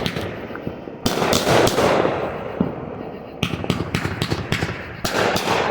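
Fireworks going off in rapid strings of crackling bangs, with fresh volleys about a second in, past halfway, and near the end.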